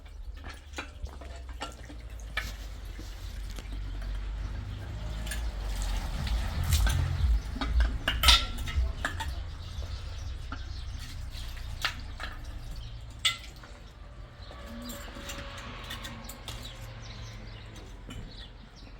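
Scattered sharp clicks and knocks over a low rumble that swells about halfway through and then eases off.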